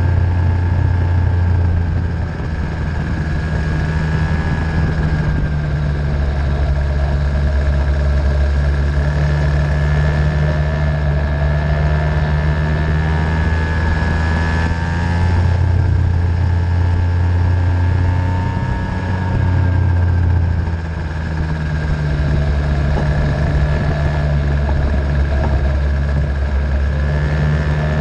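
50cc racing engine running and revving, its high note rising and falling over a steady low rumble. It eases off briefly about two seconds in and again about twenty seconds in.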